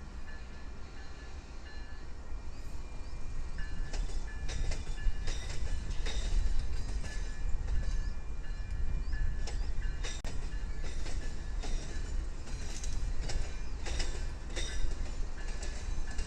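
A train passing on the tracks: a steady low rumble that grows louder about four seconds in, with sharp clicks and brief high squeals from the wheels on the rails.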